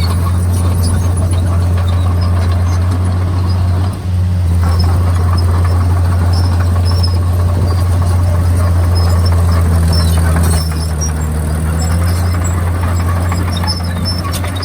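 Komatsu D51PX crawler bulldozer's diesel engine running steadily under work, a deep continuous drone with scattered short high squeaks from the running gear. The engine note eases slightly about ten and a half seconds in.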